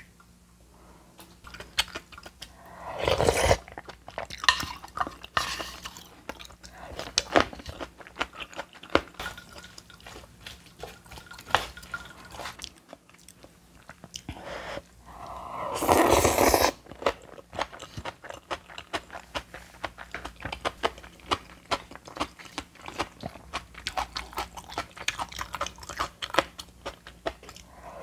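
Crunchy chewing of bibimbap with crisp seasoned old cucumber (nogak muchim), a run of many small crunches. Twice, about 3 and 16 seconds in, there is a louder noise lasting about half a second.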